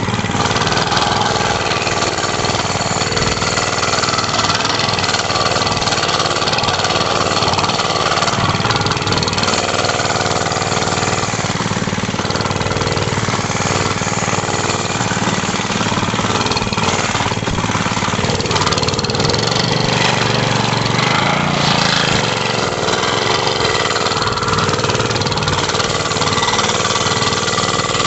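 Mini bike's small engine running steadily for the whole stretch, its pitch shifting up and down with the throttle.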